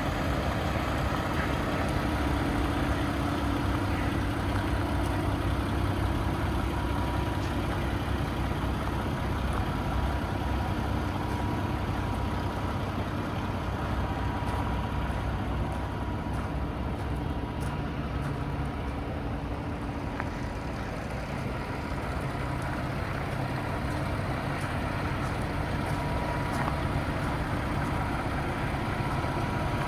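Paccar MX-13 inline-six diesel of a Peterbilt 579 day cab idling steadily, with a faint steady whine above the rumble.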